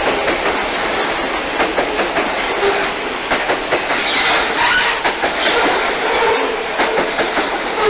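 Freight train's grain hopper cars rolling past close by: a steady rumble and rattle of steel wheels on the rails, with irregular sharp clacks as the wheels cross the rail joints.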